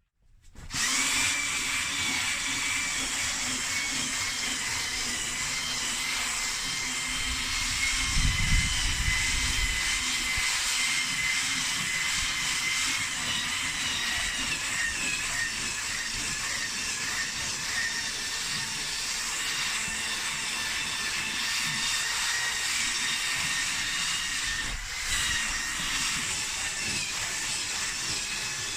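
A small electric motor of a cleaning tool starts up and runs steadily with a high whine. There is a brief low rumble about eight seconds in.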